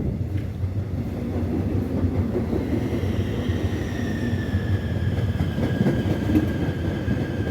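Seoul Metro Line 4 electric multiple unit built by Dawonsys running into a station: steady wheel and track rumble, with a high motor whine that comes in after a couple of seconds and slowly falls in pitch as the train slows.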